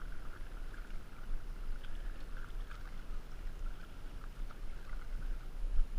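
River water running around a whitewater kayak, with a heavy, steady low rumble and scattered small splashes and drips.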